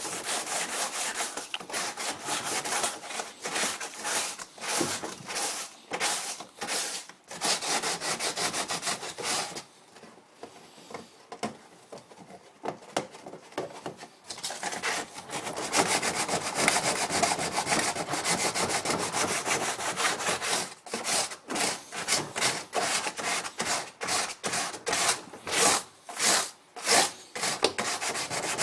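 Sandpaper rubbed back and forth by hand in repeated scraping strokes while a shower cabin is sanded down for repair. The strokes go quieter for a few seconds about ten seconds in, then come harder and more separate near the end.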